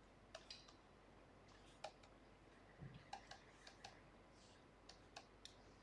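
Near silence with faint, irregular clicks and taps scattered throughout, and a soft low thump about three seconds in.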